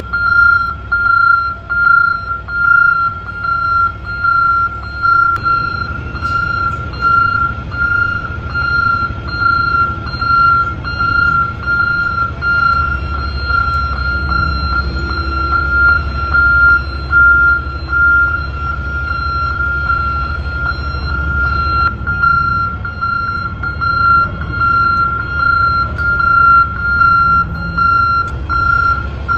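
Dump truck's reversing alarm beeping at an even pace, one high tone, over the low drone of its engine. The engine grows louder for a stretch in the middle.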